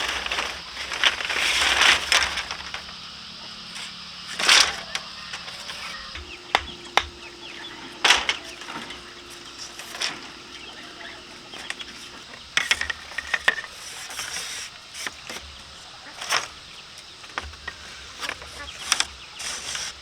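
Chickens clucking and flapping their wings, among scattered sharp knocks, over a steady high insect buzz.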